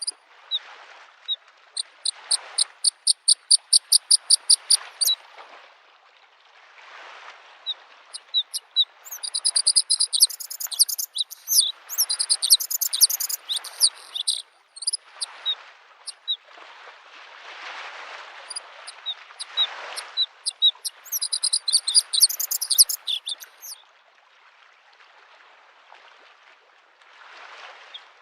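Bluethroat singing: a run of quick repeated high notes, about five a second, then two long stretches of fast, varied twittering phrases. Beneath it, lake waves lap the shore in soft swells every second or two.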